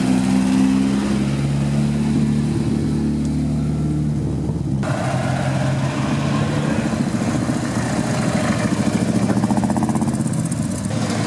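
Classic car engines running at idle and revving at times. The sound changes abruptly about five seconds in.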